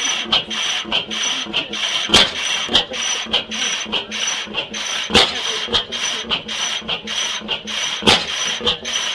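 25 hp South Penn 'half-breed' oil field engine, a steam engine converted to a propane-fired gas engine with hot-tube ignition, running with a steady mechanical clatter of about three beats a second. A sharper, louder bang comes about every three seconds, three times in all.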